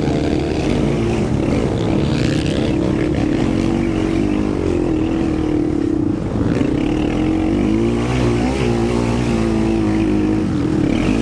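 Quad (ATV) engine ridden hard, its pitch rising and falling again and again with throttle and shifts.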